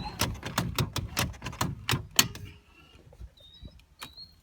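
Rapid mechanical clicking, about four to five clicks a second, as the boat's gas is pumped before another start attempt; it stops about two seconds in. No engine cranking is heard, fitting an engine that won't turn over. A few faint bird chirps follow.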